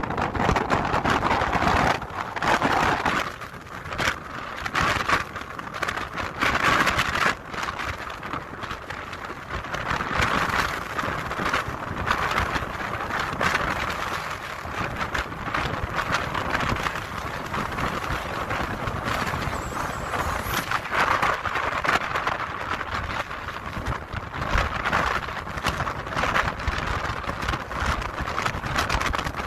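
Strong storm wind gusting, a rushing noise that rises and falls, with frequent crackling where the wind buffets the microphone.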